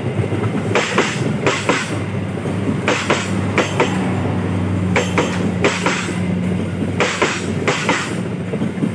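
Train wheels crossing a rail joint as carriages pass: quick double clacks, the pairs coming about every second, over a steady low hum.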